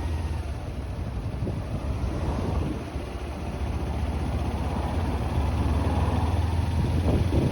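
Motorcycle engine running steadily with a low hum, growing a little louder toward the end.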